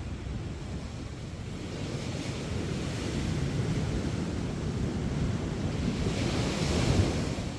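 Sea waves breaking on a sandy beach, a wash of surf that builds to a peak near the end and then falls away, with wind rumbling on the microphone.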